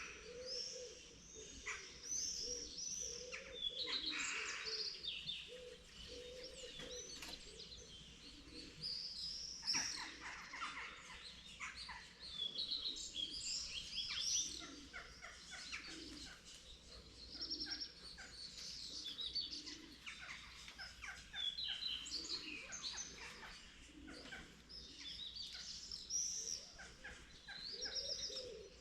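Morning chorus of many birds singing at once: overlapping high chirps, whistles and trills, with low, repeated cooing notes underneath.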